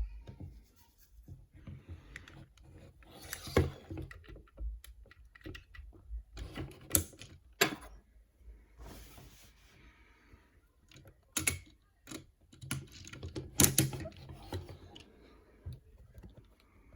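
Hard plastic parts of a Transformers Legacy Evolution Armada Optimus Prime figure clicking and snapping as the figure is transformed by hand. The clicks come irregularly, with a few sharper snaps, and there is a short rustle about nine seconds in.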